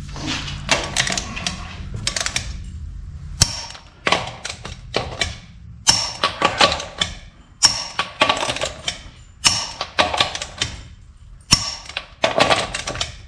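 Ratchet wrench clicking in repeated runs as the lug nuts are tightened onto a front wheel: about eight short spells of rapid ratcheting with brief pauses between strokes.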